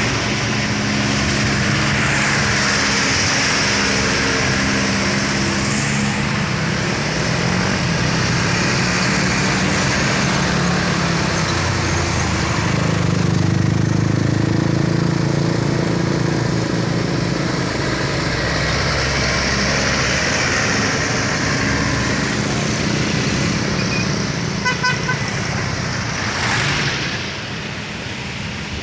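Heavy tanker truck's diesel engine labouring as the truck crawls up a steep bend, with traffic noise around it; its pitch shifts and it is loudest about halfway through. A few short horn toots sound about 25 seconds in.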